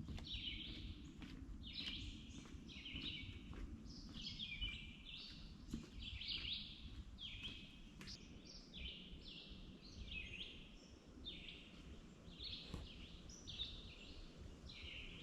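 Songbirds chirping in a forest: short calls repeating one to two times a second, with a faint steady low rumble under them.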